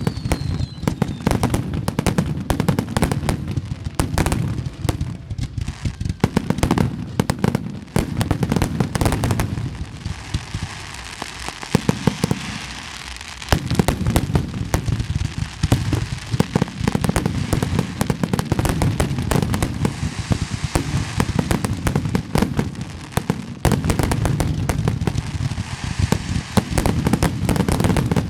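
Fireworks display going off in a rapid, continuous barrage of booming bursts and crackle. About ten seconds in, the deep booms drop away for a few seconds, leaving mostly crackling and hiss, then the booms return.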